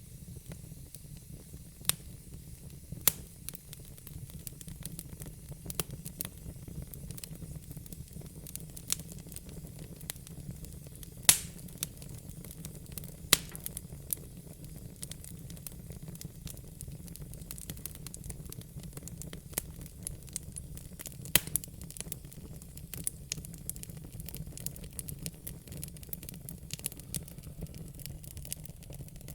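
Wood fire in a fire pit crackling: sharp pops scattered irregularly, the loudest about eleven seconds in, over a steady low rumble and hiss.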